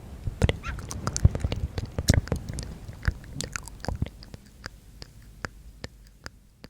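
Close-miked ASMR mouth sounds: wet clicks and smacks of the lips and tongue, thick and loud at first, then thinning out to single softer clicks about two a second.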